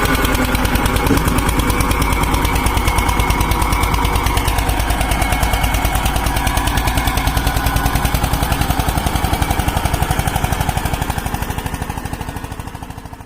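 Tractor diesel engine running with a rapid, even thudding beat, fading out near the end.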